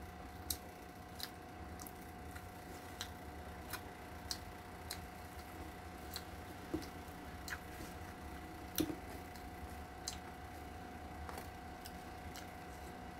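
A person chewing a mouthful of rice and meat with her mouth closed: soft wet clicks and smacks, roughly one or two a second, over a steady faint hum.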